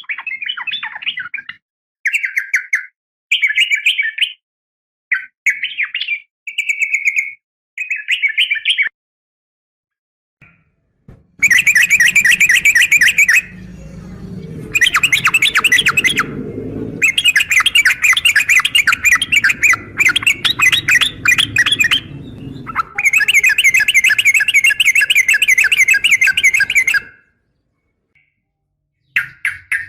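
Yellow-vented bulbul calling, billed as a female calling a male. Short chirping phrases come first, then after a pause a long run of rapid, dense trilled chatter with brief breaks, which stops near the end.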